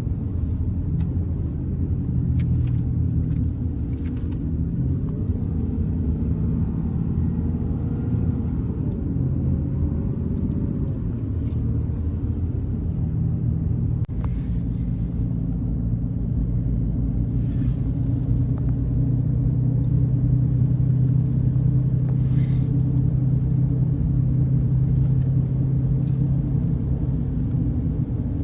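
Car driving along a road, a steady low engine and road rumble with a few faint ticks.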